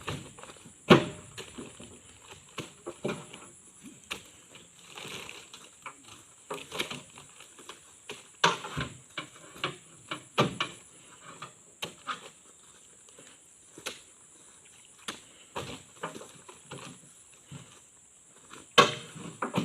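Oil palm fresh fruit bunches thudding as they are tossed and stacked, an irregular string of knocks and thumps, loudest about a second in and again near the end. A faint steady high-pitched tone runs underneath.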